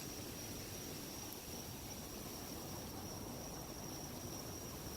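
Night insects, crickets, trilling steadily at one high pitch, over a faint low rumble of wind on the microphone.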